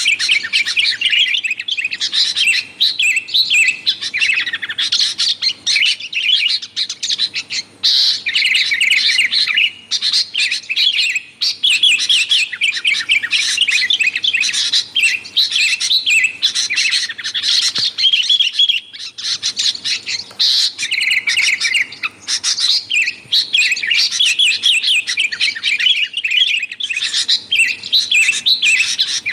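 Sooty-headed bulbul (kutilang) calling busily: rapid, continuous chattering chirps with only brief pauses.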